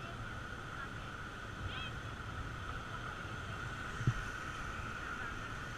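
Steady rush of river water around a rafting boat, with a single low knock about four seconds in.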